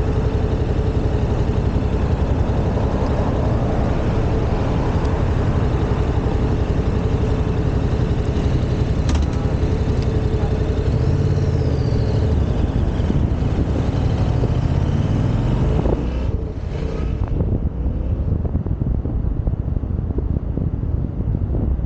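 Yamaha XSR700 parallel-twin engine running under way, with heavy wind rumble on the microphone. The engine note rises and falls a few times about halfway through, and after that the sound turns duller, mostly wind.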